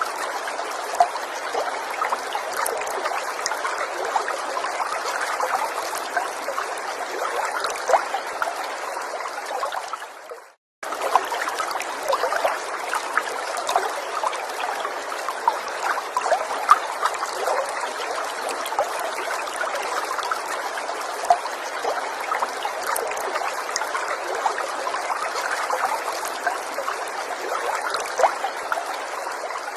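Small forest stream trickling and burbling over stones, a steady flow of small splashes. It fades out to silence for a moment about ten seconds in, then cuts straight back in.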